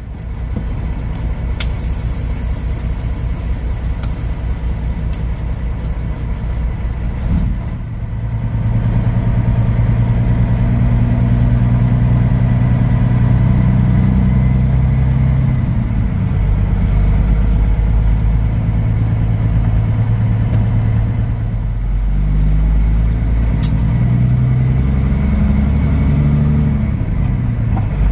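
Kenworth W900 semi truck's diesel engine pulling under load, loud and steady, its pitch stepping up and dropping back several times as it shifts through the gears.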